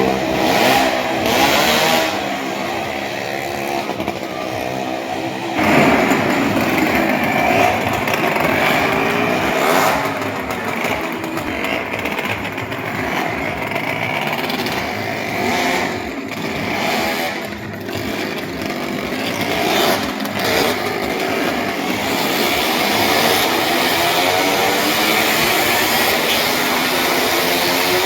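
Motorcycle engines running and revving, their pitch rising and falling continuously as several engines overlap.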